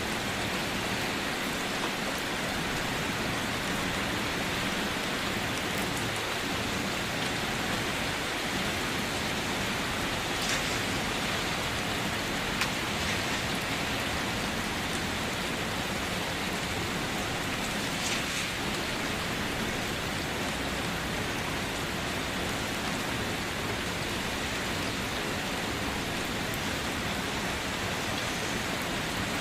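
Steady rain falling, a continuous even hiss, with an occasional louder drop splash standing out briefly.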